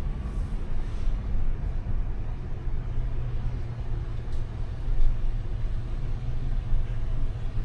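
A motor vehicle running: a steady low engine and road rumble.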